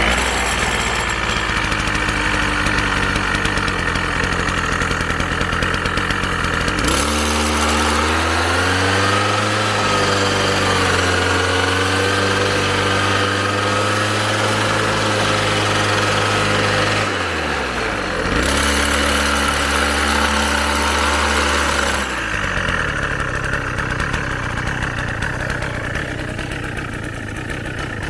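Small engine of a self-propelled walk-behind mower running steadily under load. Its note shifts several times as the load changes, with a brief dip and recovery about 17 seconds in.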